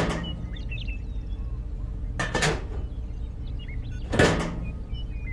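Three sharp knocks or clanks, about two seconds apart, each with a brief ringing tail, over a steady low hum and faint high chirps.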